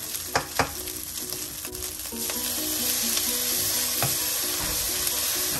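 Rice frying in a hot nonstick skillet, sizzling steadily while it is stirred with a spatula, with a few sharp scrapes and taps in the first second. The sizzle gets louder about two seconds in, with a red sauce being poured into the pan.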